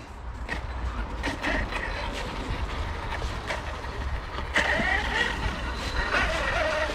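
Electric RC bash truck driving over rough ground, a motor whine coming in about four and a half seconds in over a steady rush of noise and scattered ticks.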